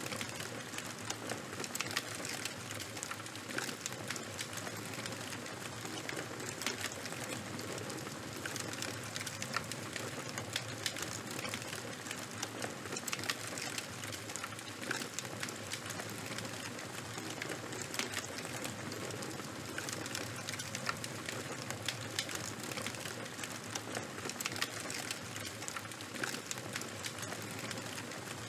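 Campfire burning with a continuous crackle: many sharp irregular pops and snaps over a steady hiss of the flames.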